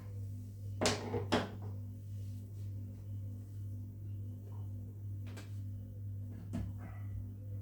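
Two sharp knocks close together about a second in, then a few fainter clicks and taps, like a drawer or cupboard being shut, over a steady low hum.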